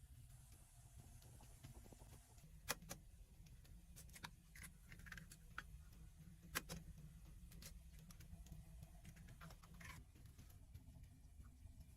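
Near silence with a low steady rumble, broken by a few faint, sharp clicks scattered irregularly, the strongest about three seconds in and again about six and a half seconds in.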